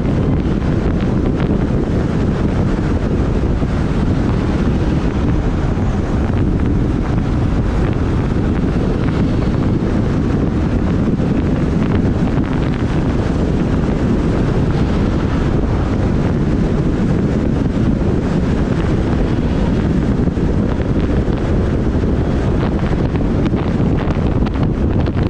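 Steady wind rumble buffeting the microphone of a moving motorbike, an even roar heaviest in the low end that drowns out other traffic sound.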